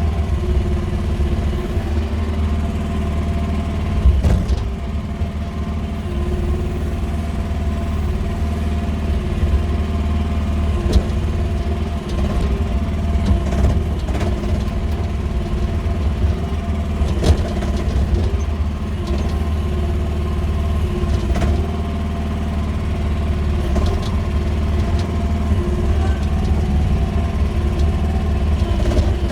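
QH13R mini excavator's engine running steadily under work, with a few sharp knocks scattered through.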